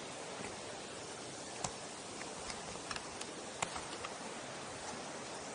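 Steady rushing of a mountain stream, with a few scattered sharp clicks about a second and a half in and again around three to four seconds in.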